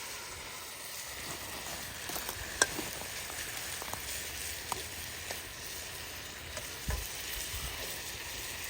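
Marinated chicken sizzling in a wok over a campfire: a steady frying hiss with a few sharp pops, the loudest about two and a half seconds in.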